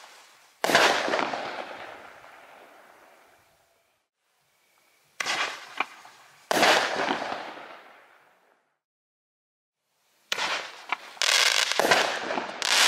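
Nico Double Crusher single-shot thunder tubes (Donnerröhren) firing. Each shot bursts with a sharp bang that trails off over a couple of seconds. One goes off about a second in, another pair around the middle, then several in quick succession near the end.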